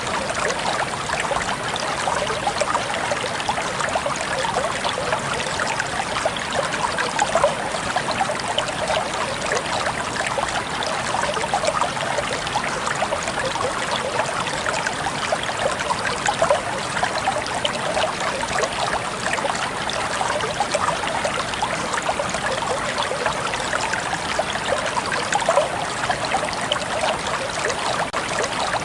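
Running water, a steady even babble like a small stream flowing over stones.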